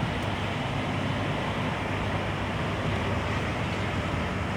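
Boom lift's engine running steadily, a low hum under an even rushing hiss.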